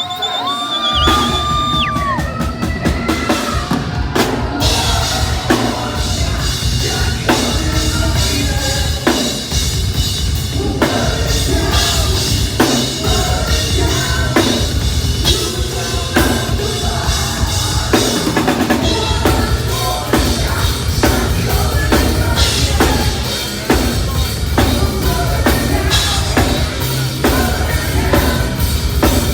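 Live heavy metal band playing loud through a PA: pounding drum kit and heavy bass under distorted guitars, with singing. A held, bending note sounds first, and the full band comes in about a second in.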